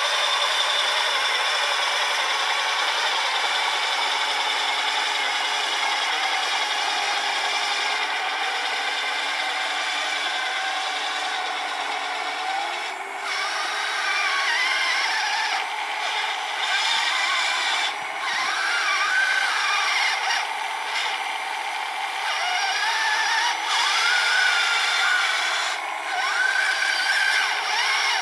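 Whine of the small electric motors of a radio-controlled truck and its 3D-printed snowblower, several high tones at once. From about halfway the pitch rises and falls repeatedly, with a few brief dips.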